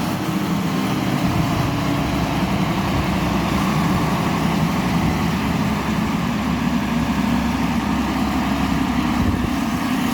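Vehicle engine running steadily, a constant low hum.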